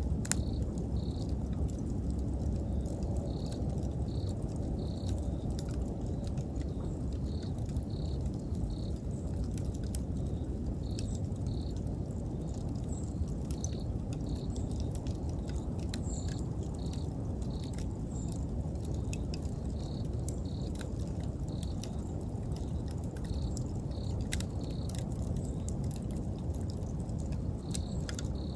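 Wood campfire burning with a steady low rush of flame and scattered sharp crackles and pops, while a cricket chirps in short repeated pulses, a few at a time, about once a second.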